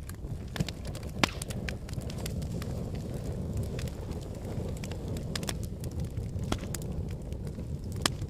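Logs burning in a fireplace: a steady low rumble of flames with scattered sharp crackles and pops, a loud pop about a second in and another near the end.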